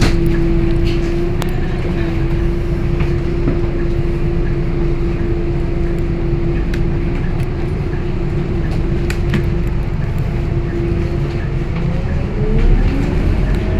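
Scania K230UB Euro IV city bus heard on board: its 9-litre five-cylinder diesel and drivetrain run with a deep rumble and a steady whine. Near the end several whines glide upward in pitch as the bus picks up speed.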